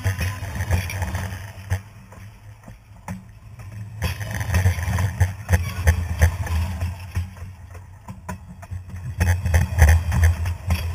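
Railway cars rolling directly overhead: a low rumble of steel wheels on the rails with clicks and clanks, swelling as each set of wheels passes over and easing between them.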